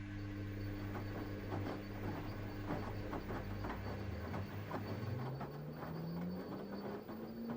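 LG washing machine running a quick-wash cycle: the drum motor's steady hum fades, then from about halfway its whine rises steadily in pitch as the drum speeds up. Irregular light knocks run throughout.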